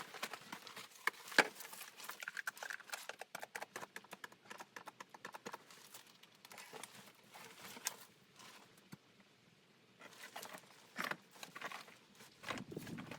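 Footsteps crunching in snow, an uneven run of steps that pauses briefly about eight seconds in and then starts again.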